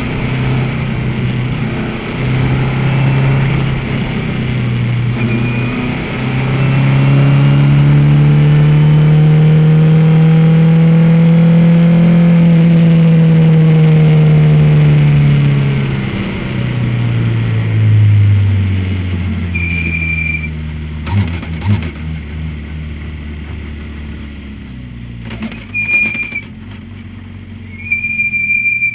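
Race car engine running under load, its pitch rising and falling, then dropping to a lower steady note as the car slows. A high electronic beep sounds three times in the second half.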